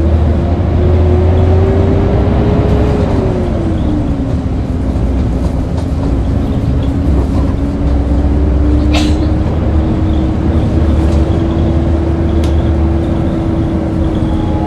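Hyundai New Super Aero City bus running, a deep steady rumble with a whine that climbs, drops away about three seconds in, then holds level. A sharp click about nine seconds in.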